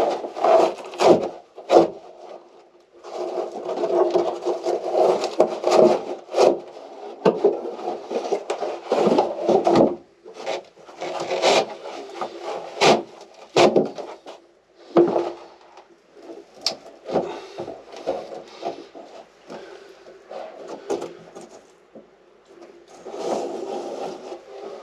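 Wooden interior of a small sailboat being scraped, rubbed and pried out in irregular stretches, broken by sharp knocks and cracks of wood.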